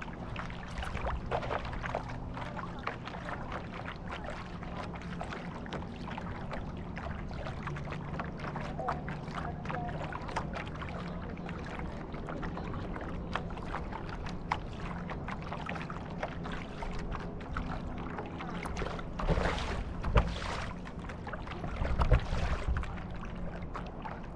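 Boat under way: water washing and splashing along the hull over a steady low hum, with two louder surges near the end.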